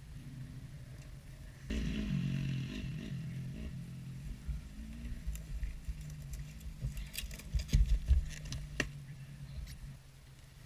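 Dirt bike engine running at a low idle, revved up suddenly about two seconds in and then easing back. Sharp knocks and clattering thumps follow around seven to nine seconds in, the loudest near the eight-second mark.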